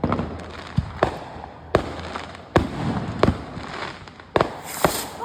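Fireworks going off: a run of sharp bangs at uneven intervals, about eight in five seconds, over a low crackle.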